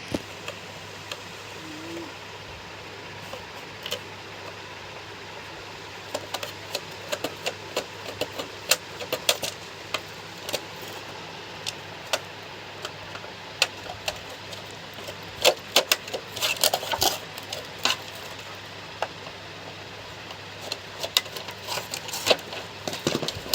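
Scattered small metallic clicks and taps of a spanner and loose metal parts as the nuts inside a mixer grinder are undone and the unit is taken apart. The clicks come sparsely at first and grow denser in the second half.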